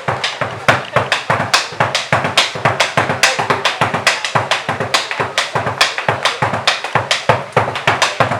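Malambo footwork: fast, even, sharp stamping and tapping of boots, with drum beats underneath.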